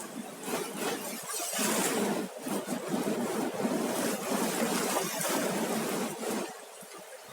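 Ocean surf on a sandy beach: a wave breaks and washes up in a swelling rush of noise, which falls away about six seconds in.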